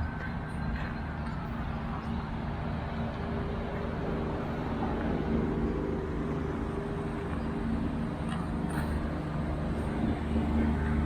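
A motor vehicle's engine running steadily nearby: a constant low hum over a traffic-like rumble.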